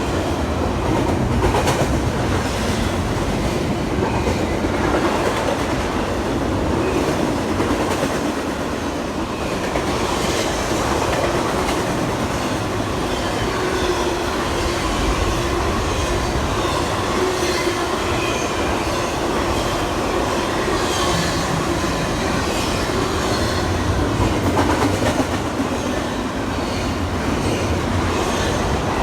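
A train rolling past at steady speed, its wheels clacking over the rail joints with a faint steady squeal.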